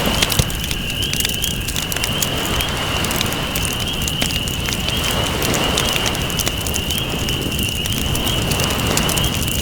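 Campfire crackling with many small irregular pops, over a steady rush of ocean waves that swells gently around the middle. A steady high-pitched tone runs underneath.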